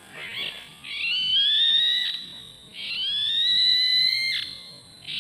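A bird caught in a trap calling: one short call, then two long calls that rise slowly in pitch, each about a second and a half, with another call starting near the end.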